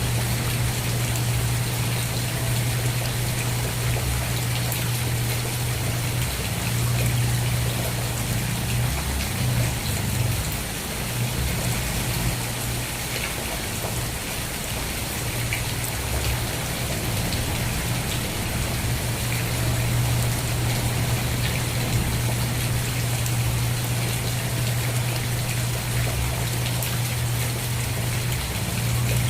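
Steady rain with fine drops pattering, over a constant low rumble.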